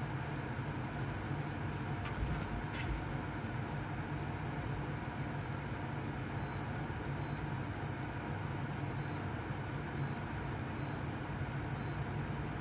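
Tansu no Gen QL11 portable spot air conditioner running: a steady rush of air over a low hum, at an even level.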